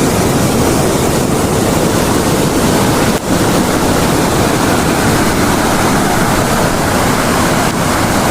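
A river in its first flood of the rainy season: fast floodwater rushing with a loud, steady noise. The noise dips briefly about three seconds in.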